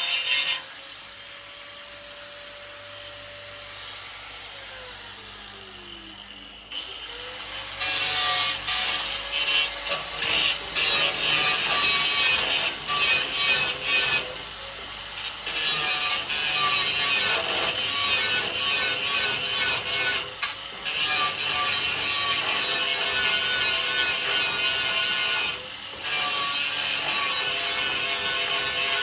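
Power grinder cleaning the metal of a 1955 Chevy truck's body for welding. It grinds briefly, is let off and winds down with a falling whine, then spins back up about seven seconds in and grinds steadily, with a few short pauses as it is lifted off the work.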